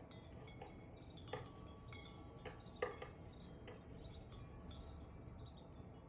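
Wind chimes ringing faintly and irregularly as gusts knock them: a few separate strikes with lingering high tones, over a steady low rumble.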